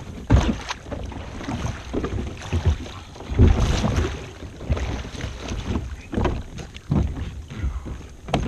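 Water splashing and irregular thumps and knocks against a kayak hull as a person climbs back aboard from the water, with a heavier burst of thumping and splashing a few seconds in.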